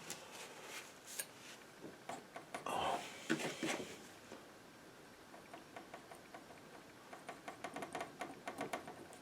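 Painting knife scraping and clicking against the palette and canvas as paint is mixed and laid on, with a longer scrape about three seconds in and a quick run of light taps near the end.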